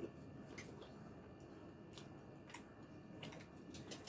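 Faint mouth sounds of someone chewing braised pork with the mouth closed: a few soft, irregular clicks and lip smacks.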